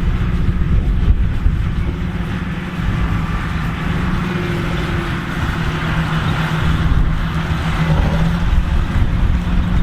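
John Deere 8530 tractor running steadily while pulling a Massey Ferguson 2190 large square baler: a continuous engine hum over a low rumble, with a rushing mechanical noise that swells in the middle.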